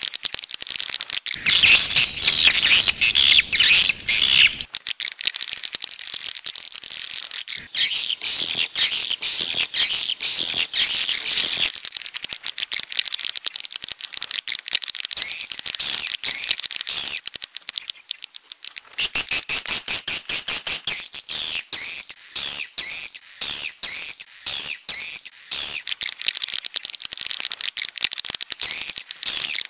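Swiftlet calls of the 'jaguar' type used as a swiftlet-house lure: rapid trains of clicks and high chirping twitters, with a louder, denser run of chirps a little past the middle.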